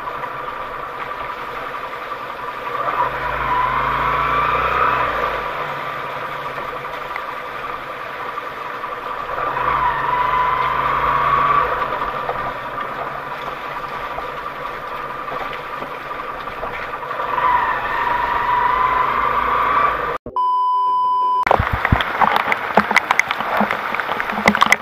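Off-road 4x4 engine running under load, revving up and falling back three times. About twenty seconds in, the sound cuts to a single steady beep lasting about a second. It is followed by a run of sharp clicks and knocks.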